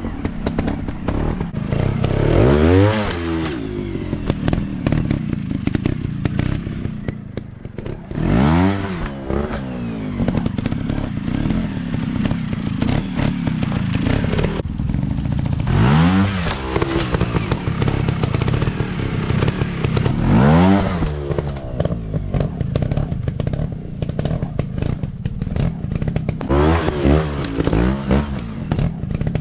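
Dirt bike engines running throughout, with the pitch rising sharply and dropping back about five times as the throttle is opened and closed, over a continuous rattly idle.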